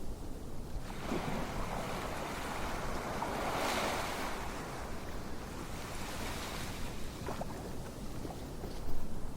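Ocean waves on a shore: steady surf hiss, with one wave swelling in and washing back about midway. A short, louder bump comes near the end.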